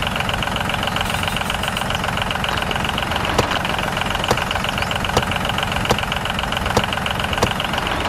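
Steady engine running sound of a miniature DIY toy tractor stuck with its trolley in sand. Sharp clicks come about once a second from midway on.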